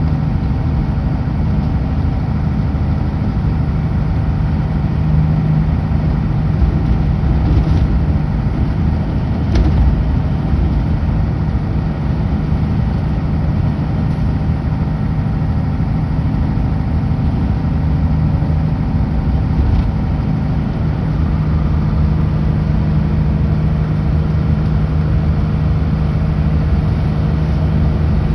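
Kenworth W900L semi truck's diesel engine running steadily at highway speed, with tyre and road noise. Two brief clicks about 8 and 10 seconds in.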